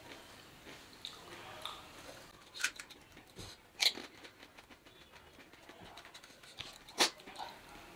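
Close-up mouth sounds of a person chewing a mouthful of pani puri: soft crunching and wet lip smacks, with three sharper smacks, one about two and a half seconds in, one about four seconds in and one about seven seconds in.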